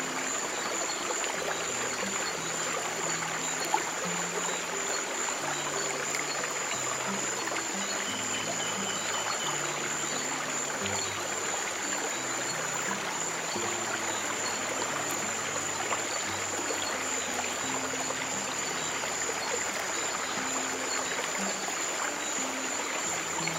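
Flowing stream water trickling steadily, with slow, soft low piano notes held underneath.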